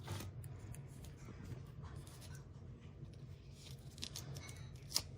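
Faint handling noise of fingers pressing a silver adhesive strip into place on a hard drive enclosure: light rubbing and small taps, with one sharper click near the end, over a low steady hum.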